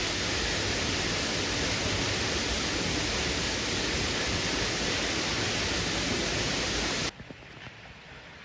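Steady rush of a waterfall pouring into a pool, cutting off suddenly about seven seconds in to a much quieter background.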